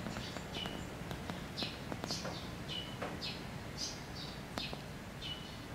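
A small bird calling repeatedly: short, high chirps that drop in pitch, about two a second, some ending on a brief steady note. It sounds over a low, steady background noise.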